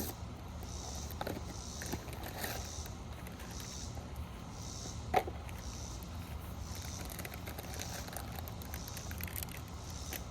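Outdoor background with a high chirp repeating about every 0.7 s over a low steady hum, and a single sharp click about five seconds in.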